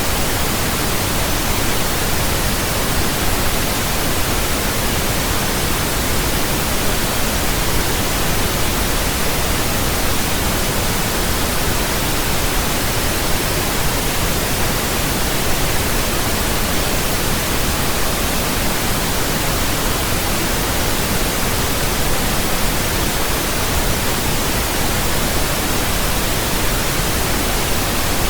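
Steady synthetic pink noise: an even, unchanging hiss with a deeper rumble than white noise.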